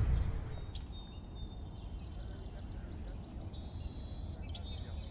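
Outdoor ambience: birds chirping and twittering over a low, steady background rumble, with a quick run of high chirps near the end. A louder low rumble cuts away in the first half second.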